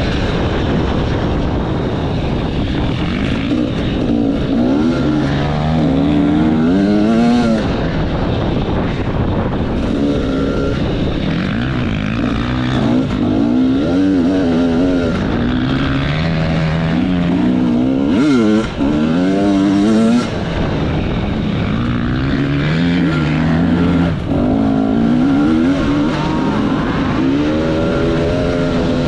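Off-road enduro motorcycle engine being ridden hard, its pitch climbing and falling over and over as the throttle opens and closes, with two brief drops in level about two-thirds of the way through.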